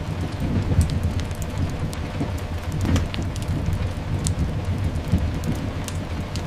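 Layered ambience of steady rain and a continuous low rumble, with a few scattered sharp pops from a crackling fireplace.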